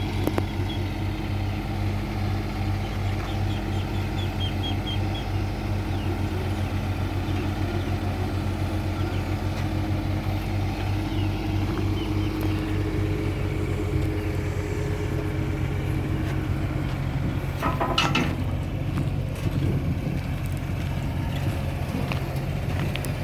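Engine running steadily at an even pitch, with a brief louder scraping or hissing noise about 18 seconds in.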